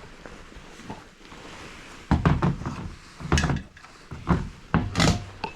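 Several hard knocks and thunks of objects being picked up, bumped and set down, starting about two seconds in, after a quiet stretch.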